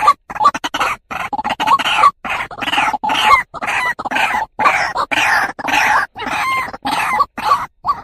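White-breasted waterhen (truwok) calling: a quick run of short, rough notes, several a second, with brief gaps between groups.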